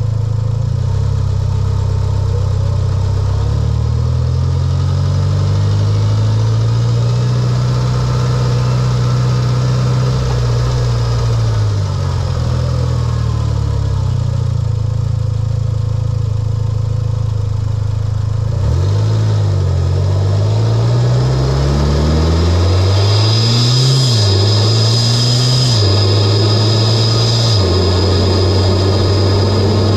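Mitsubishi Lancer Evolution X's turbocharged four-cylinder, fitted with an aftermarket intake and single-exit exhaust, running at a steady drone, then accelerating hard about two-thirds of the way in. The revs climb and drop through a few quick shifts, with a loud intake hiss and a high whistle over the engine note near the end.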